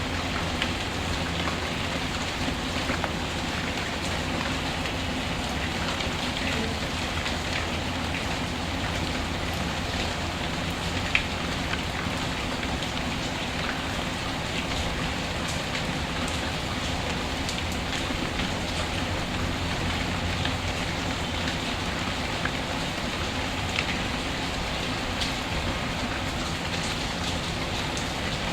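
Steady rain falling, with a wood fire in a fireplace crackling now and then; one sharper crack about eleven seconds in.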